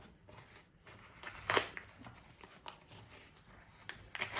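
Peel ply being peeled off a cured carbon-fibre mudguard: irregular crackling and tearing, with a sharper rip about one and a half seconds in and again near the end.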